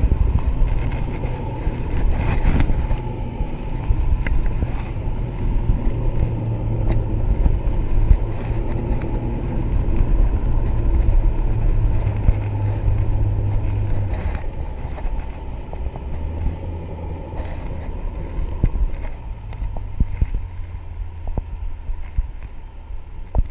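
A Mako 19 Pro Skiff's outboard motor running steadily under way. A little past halfway its note drops lower as it is throttled back.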